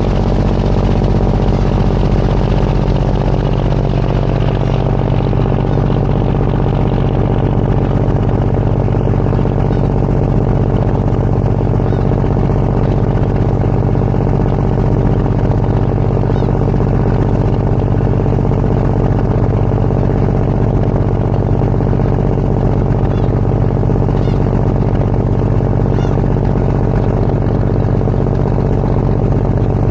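Ferry's diesel engine running steadily: a loud, even hum with several steady tones, one of which dips slightly a few seconds in.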